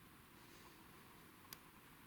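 Near silence: faint room hiss, with one brief faint click about one and a half seconds in.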